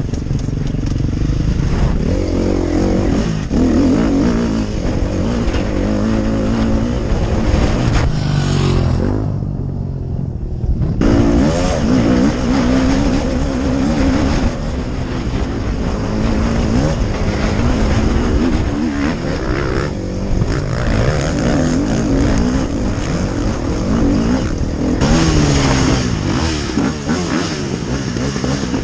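KTM 250 SX-F dirt bike's single-cylinder four-stroke engine being ridden hard, its revs rising and falling again and again as the throttle is worked. The engine eases off briefly about ten seconds in.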